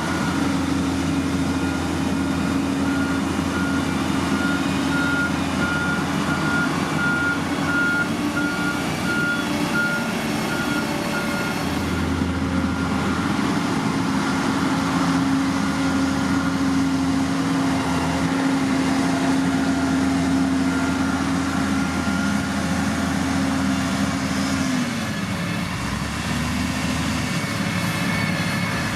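Heavy construction machine's diesel engine running steadily, with a reversing alarm beeping about twice a second for several seconds in the first half. The engine drops in pitch near the end as it throttles back.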